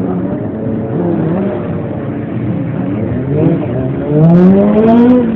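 Motorcycle engine revving up and down several times, with a long rising rev, the loudest part, starting about four seconds in.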